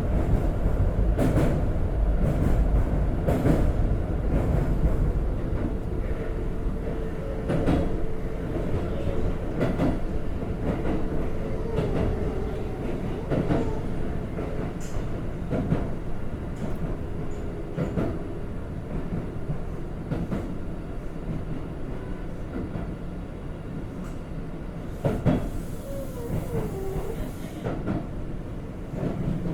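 Interior running sound of a Keikyu 1500 series electric train (Toyo GTO inverter car) under way between stations: a steady low rumble of wheels on rail with irregular clicks as the wheels cross rail joints, growing gradually quieter. The car's air conditioning is running.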